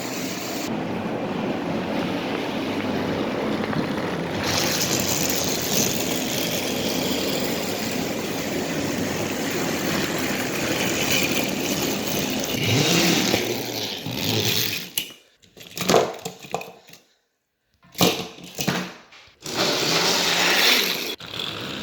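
Battery-powered motorized Thomas & Friends toy engines running steadily, their small motors pulling coupled push-along engines. About fourteen seconds in, the sound breaks into short bursts with silent gaps between them.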